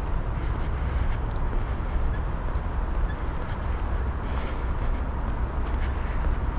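Steady low outdoor rumble with faint footsteps of someone walking on the trail, a light tick about once a second.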